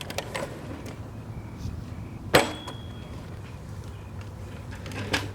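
A single sharp knock about two and a half seconds in, with a few lighter clicks, over a steady low hum.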